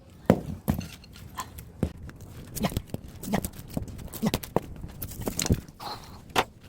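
Irregular knocks and clinks of metal scrap being handled while a discarded air-conditioner outdoor unit is taken apart, with a few short grunts or murmurs among them.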